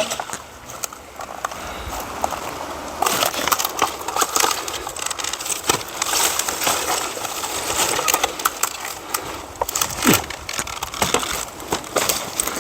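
Dry wood and twigs crunching and snapping, with many small clicks and a heavier knock near the end.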